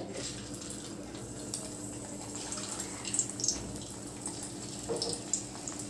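Potato-semolina fingers sizzling as they are placed into hot oil in a kadai for deep frying: a steady hiss with scattered small crackles.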